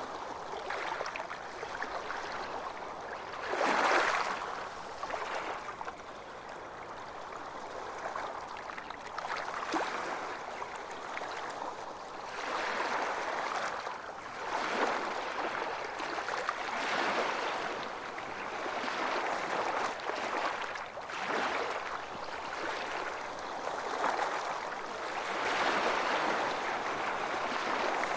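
Ocean waves breaking and washing up on a beach, swelling and falling back every few seconds, with the strongest surge about four seconds in.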